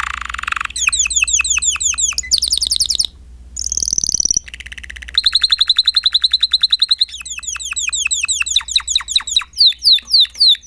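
Spanish Timbrado canary singing: a string of rapid phrases, each a fast run of identical repeated notes or sweeping whistles, changing to a new phrase every second or two, with a brief pause about three seconds in.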